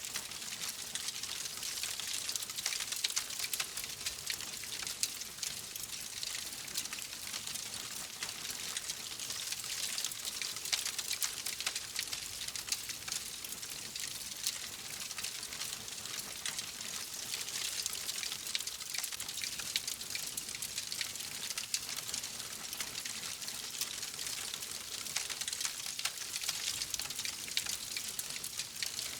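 Fireplace fire crackling steadily: a dense run of small pops and snaps over a soft hiss.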